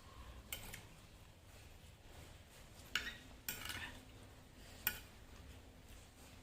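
Eating utensils clinking and scraping against a dish: a faint knock early on, a sharp clink about three seconds in followed by a brief scrape, and another sharp clink near five seconds.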